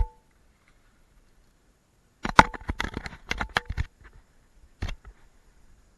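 A quick run of sharp clicks and knocks, about a dozen in a second and a half, a few with a brief faint ring, then a single knock about a second later.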